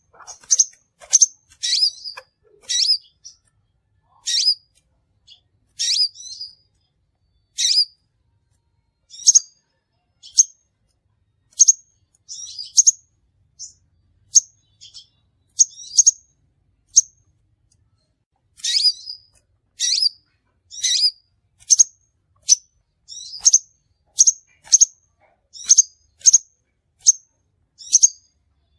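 Crimson sunbird calling: a long series of short, sharp, high-pitched chirps, irregularly spaced and sometimes in quick clusters, with a sparser stretch about midway. This is a lure-call recording used to attract the bird.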